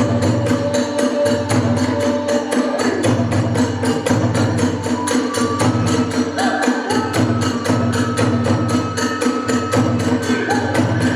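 Kagura hayashi ensemble: drums and hand cymbals keep a fast, steady beat while a flute plays long held notes.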